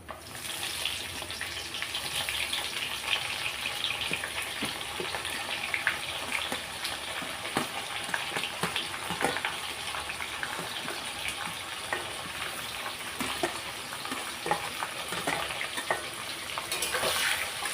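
Chopped onions sizzling in hot oil in a kadhai, the sizzle starting suddenly as they go in, with frequent clicks and scrapes of a spoon stirring them.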